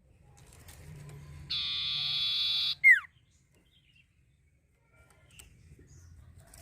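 Common iora (cipoh) singing: one long, buzzy trill of a little over a second, ending in a single sharp downward-sliding whistle, which is the loudest note. A faint low hum lies under it.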